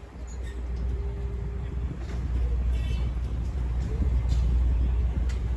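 Steady low rumble of a departing boat's engine, with a faint horn tone from about half a second in that stops before the two-second mark.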